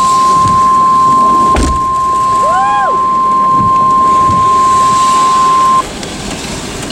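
NOAA Weather Radio warning alarm tone: one steady, high, loud tone that cuts off suddenly about six seconds in, the signal that a severe thunderstorm warning follows. A short knock about a second and a half in, and a brief rising-and-falling whoop from a person partway through.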